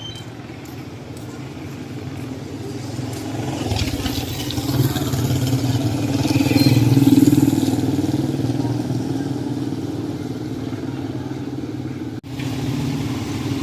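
A motor vehicle's engine passing close by on the street, growing louder to a peak about halfway through and then fading away.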